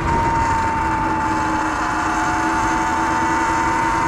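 Sur-Ron Light Bee electric dirt bike's motor whining at a steady cruising pitch that sags slightly early on, with rushing wind and road noise on the microphone.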